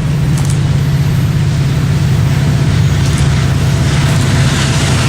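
Diesel locomotive engine running with a loud, steady, deep throb.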